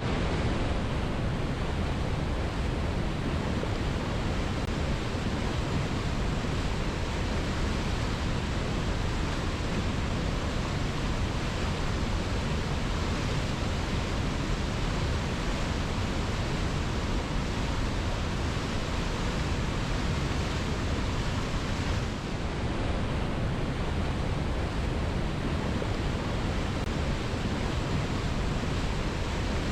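Waterfall pouring steadily: an unbroken, even rush of falling water, heaviest in the low end, dipping slightly for a moment about three quarters of the way through.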